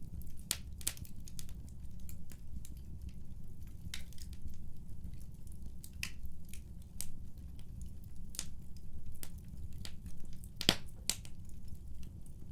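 Wood fire burning in a fireplace: scattered sharp crackles and pops over a steady low rumble, with one louder snap near the end.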